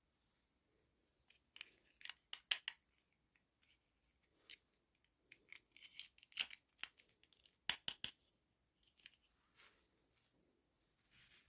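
Scissors snipping and plastic packaging crinkling and tearing as a toy package is cut open, in short irregular clicks and rustles.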